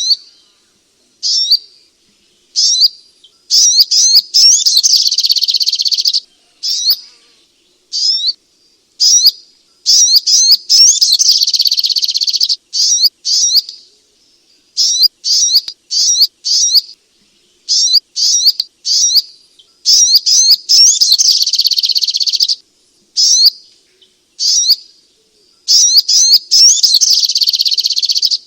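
Sogok ontong bird singing loudly: rapid, high-pitched chirping phrases that come in short bursts, broken up by several longer runs of dense, continuous trilling.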